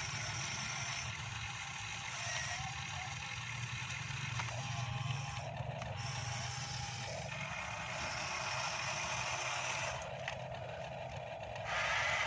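Remote-controlled model excavator's electric motors whirring as the long-reach arm digs. The whine changes tone and stops and starts several times as the arm moves.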